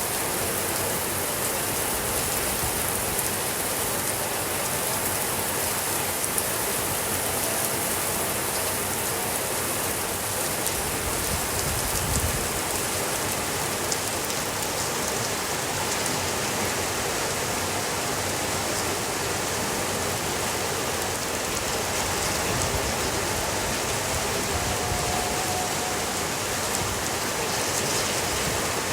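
Steady rainfall, an even hiss of rain on a surface, with a few isolated soft clicks.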